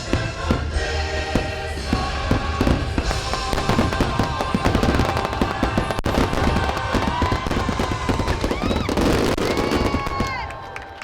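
Fireworks crackling and bursting in rapid succession over music, with several rising-and-falling whistles in the second half; the bursts die down shortly before the end.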